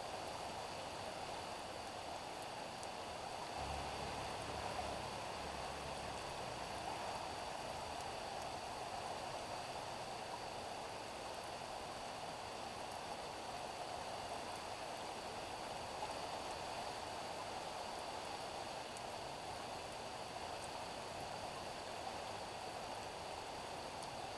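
Steady rain falling on a street, an even patter and hiss. A short low rumble sounds a few seconds in.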